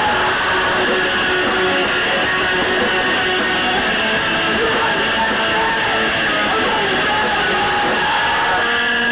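Live emo/post-hardcore band playing loud rock music with electric guitars, cymbals struck on a steady beat.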